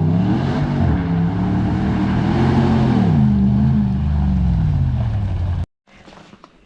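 A 1991 Toyota Hilux comp truck's engine revving, its pitch rising and falling several times as it drives. The sound cuts off abruptly near the end, leaving only quiet clicks and rustling.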